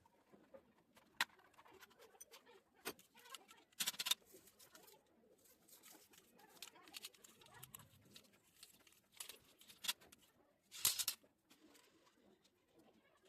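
Scattered light clicks, taps and short scraping rustles, as of small parts being handled. The loudest come in a cluster about four seconds in and again about eleven seconds in.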